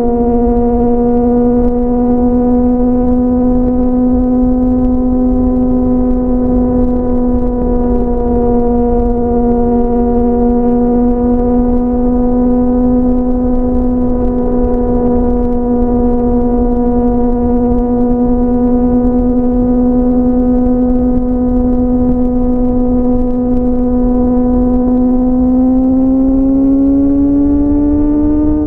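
Sport motorcycle's inline-four engine running at a steady freeway cruise, holding one pitch, then rising gradually over the last few seconds as the bike accelerates. Low wind rumble underneath.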